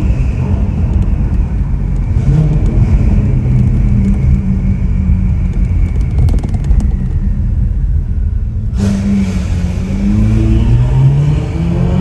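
Ferrari 488 Pista's twin-turbo V8 running through a Ryft aftermarket exhaust while driving, the engine note climbing in pitch under acceleration a few seconds in and again near the end.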